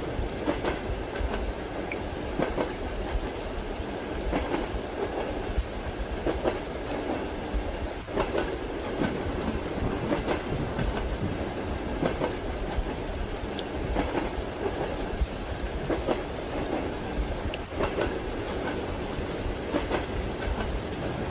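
Train wheels clicking over rail joints inside a moving carriage, a short knock about every two seconds, over a low rumble and a steady hiss of rain.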